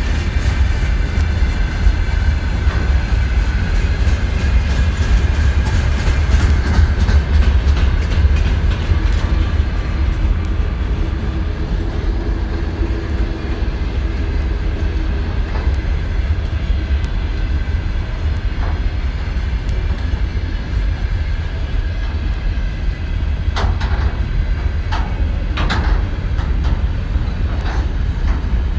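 Freight train hauled by a 3ES5K electric locomotive rolling past: a steady rumble of steel wheels on the rails with a faint high whine, and several sharp clicks near the end.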